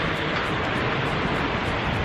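Steady rush of wind over the microphone, with a faint low hum underneath.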